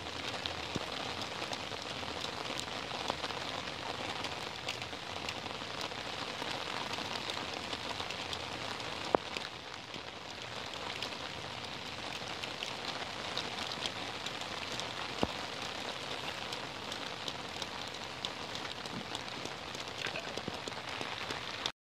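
Steady rain falling on a lake surface, an even hiss of drops with a few louder single ticks of drops landing close by.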